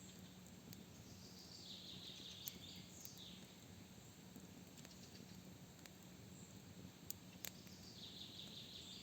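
Campfire crackling faintly with scattered sharp pops, and a bird singing a short phrase twice, about two seconds in and again near the end.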